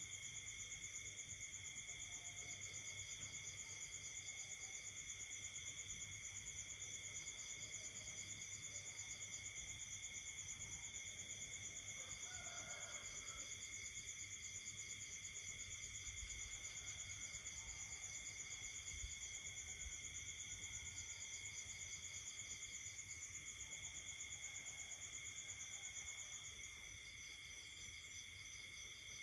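Night chorus of crickets and other insects: several steady high-pitched trills at different pitches, with a higher pulsing trill that starts and stops in runs of a few seconds. A faint, lower call sounds briefly about halfway through, and the loudest trill fades near the end.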